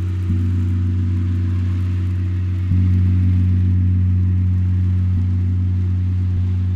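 Low sustained drone tones from sound-healing instruments. A new note is struck about every two seconds (four times) and rings on over the deep steady hum.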